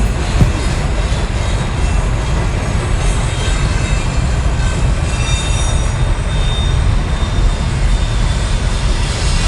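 Freight train passing close by: a loud, steady rumble and rolling noise from the wagons, with faint high-pitched wheel squeals coming and going.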